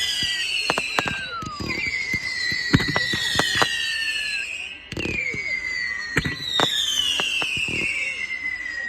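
Fireworks going off: a string of sharp bangs and crackles, with several whistling fireworks whose tones fall in pitch over about two seconds each.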